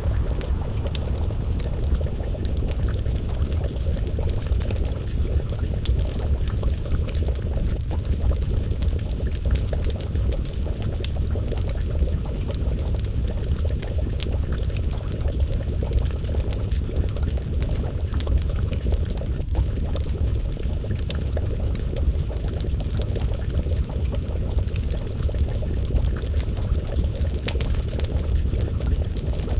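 A wood fire crackling with many small, scattered pops, and a pot of stew bubbling at a simmer over it, all over a steady low rumble.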